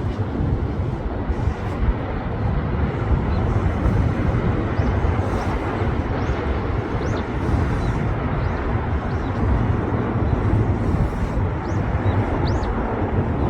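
Train running past, a steady low rumble with no pause, and a few faint short high chirps over it.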